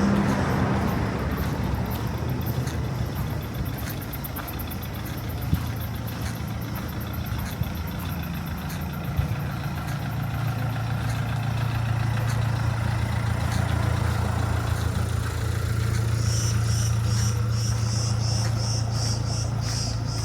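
A motor vehicle's engine running steadily close by, its hum growing stronger about halfway through. A rhythmic high chirping, about three a second, starts near the end.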